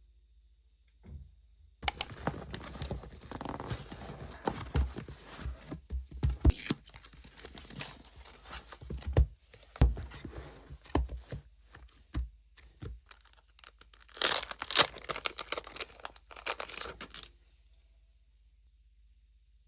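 Packaging being torn open and crinkled by hand, a dense run of tearing and crackling with many small clicks. It gets louder a few seconds before it stops, well before the end.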